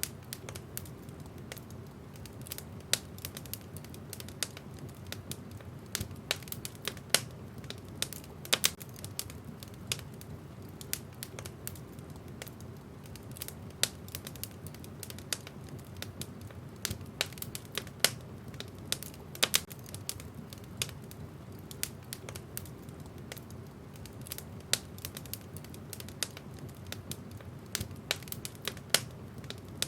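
Wood fire in a fireplace crackling, with irregular sharp pops and snaps of burning logs, a few much louder than the rest, over a steady low rush of the flames.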